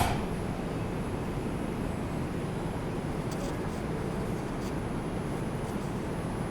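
Steady rumble inside an R142 subway car as the train gets under way from the station. A brief clunk right at the start, as the doors close.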